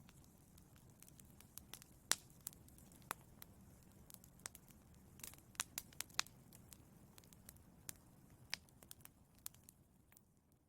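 Wood fire in a fireplace crackling: irregular sharp pops and snaps over a faint, steady low rumble of the flames, fading out near the end.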